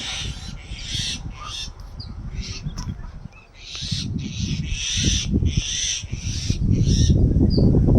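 Birds giving harsh, raspy calls over and over, each call short and hissy, over a low rumble that grows louder near the end.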